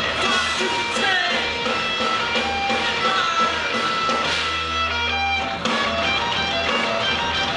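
Loud live noise-rock band playing: distorted electric guitars over bass and drums.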